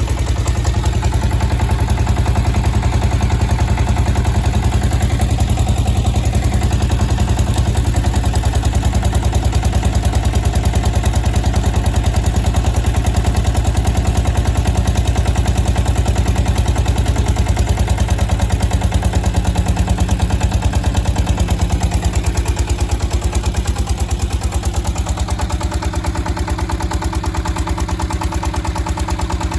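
SD1110 engine running a generator under load, a steady, even pulsing beat at constant speed; the low tones ease off slightly near the end.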